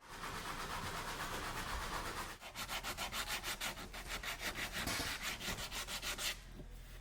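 Wood being sanded by hand: a steady rubbing for about two seconds, then quick rhythmic strokes, about five or six a second, stopping shortly before the end.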